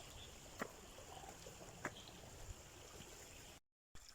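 Faint stream ambience with a few sharp taps, one near the start and others about half a second and two seconds in. The sound cuts out completely for a moment near the end.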